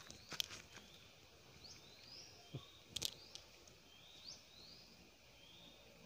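Quiet outdoor background with a bird calling over and over, each call a quick rising note followed by a longer, gently rising one, repeating about every second. Two sharp clicks, one just after the start and one about halfway, are the loudest sounds.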